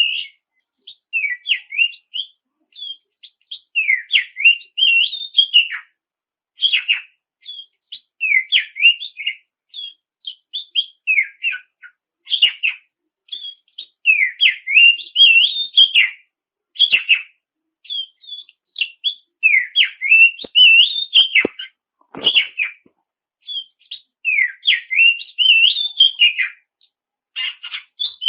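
Oriental magpie-robin (kacer) singing vigorously: a run of short, varied whistled phrases that glide up and down, separated by brief pauses.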